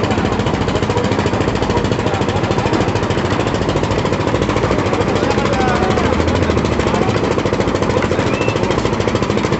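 Engine-driven concrete-pouring machinery running steadily at the site, a loud, even, rapid pulsing. A few faint rising-and-falling whistles sound over it.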